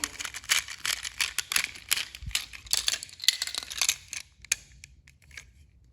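Plastic toy train engines being handled: a rapid, irregular run of small clicks and rattles that dies down after about four seconds.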